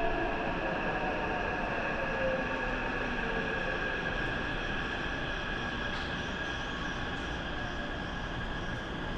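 A Taipei Metro train pulling into the station: a steady rumble with a high ringing from the wheels, and a motor whine that falls in pitch over the first couple of seconds as it slows.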